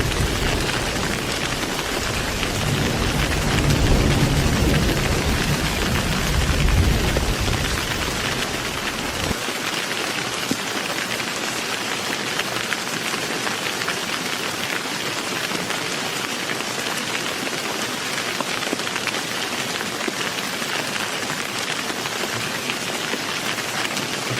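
Heavy rain falling steadily, with a low thunder rumble rolling through the first part that swells about four seconds in and cuts off abruptly about nine seconds in, leaving only the rain.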